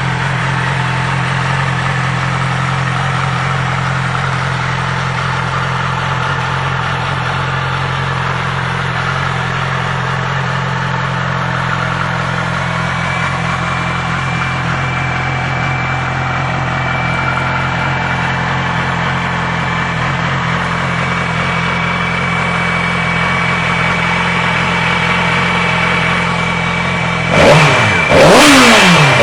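Yamaha YZF-R6 sport bike's inline-four engine idling steadily, then revved sharply near the end, its pitch rising and falling.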